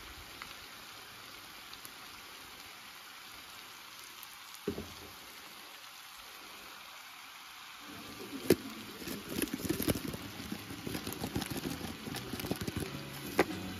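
Chicken and sliced onions sizzling in a hot pan as spices are sprinkled on: a steady hiss that turns to dense crackling and popping about eight seconds in, with a few sharp clicks.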